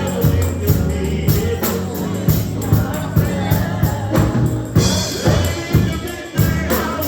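Gospel music with a drum kit keeping a steady beat, bass, tambourine, and some singing.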